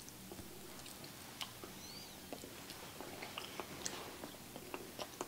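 Faint clicks of forks cutting meatloaf against china plates, then soft chewing with small mouth clicks, thicker from about three seconds in.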